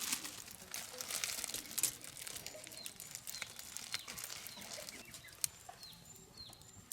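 Crackling and popping from the campfire cooking, densest in the first two seconds and thinning after that. A bird gives short falling chirps, about once or twice a second, through the second half.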